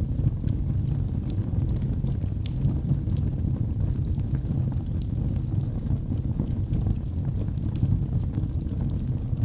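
Wood fire burning in a fireplace: a steady low rumble of flames with many small sharp crackles and pops from the burning wood scattered throughout.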